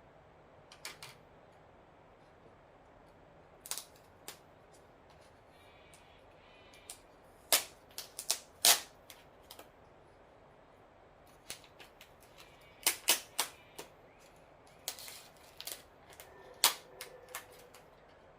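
Scattered sharp clicks and knocks of household objects being handled and set down, irregularly spaced, with the loudest ones in the middle and near the end.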